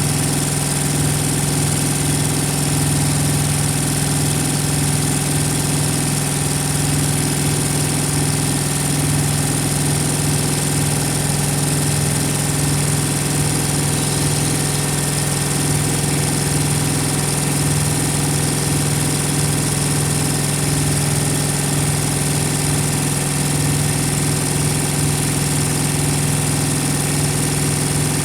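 Thermo King TriPac APU's small diesel engine running at a steady speed, with an even hum and no change in speed.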